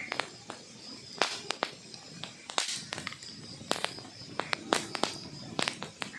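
Wood fire crackling in a fireplace: burning logs giving off irregular sharp snaps and pops over a low hiss, a few of them louder than the rest.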